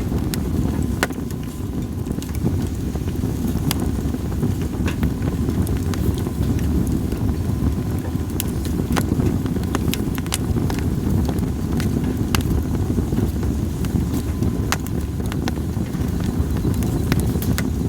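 Split sawtooth oak (kunugi) firewood burning in a campfire: sharp crackles and pops at irregular intervals over a steady low rumble.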